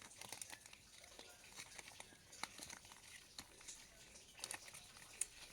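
Faint crinkling and scattered small clicks of a plastic gummy-candy wrapper being worked open by hand.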